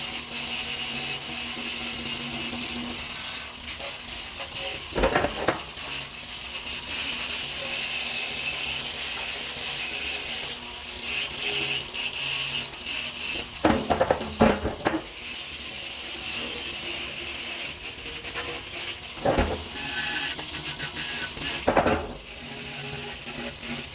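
Workshop work noise: a steady hiss with a few sharp knocks or clatters, four times, one of them a short cluster of knocks about halfway through.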